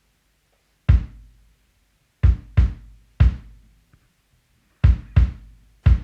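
Drum kit and bass guitar playing seven sparse accented hits together, kick drum and cymbal with a short low bass note on each, separated by silence.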